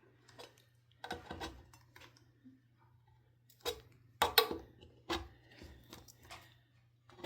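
Metal screwdriver clicking and scraping against a ceiling fan's jammed glass light cover as it is pried at, in short irregular clicks and knocks, the loudest about four seconds in.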